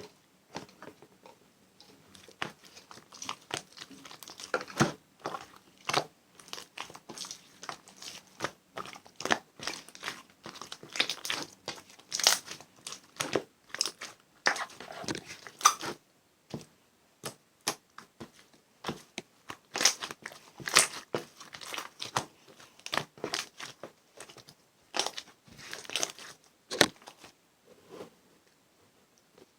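Avalanche slime being squished, pressed and stretched by hand, making irregular quick, sharp clicking and popping sounds. The sounds stop briefly near the end.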